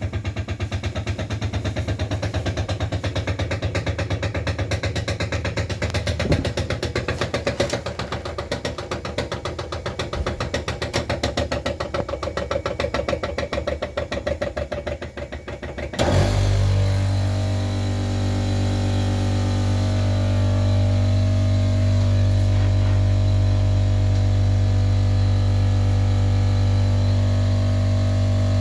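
Emerson Copeland scroll compressor knocking in a fast, even rhythm, the knock it makes when being switched off. About sixteen seconds in, the knocking stops abruptly and gives way to a steady, even hum.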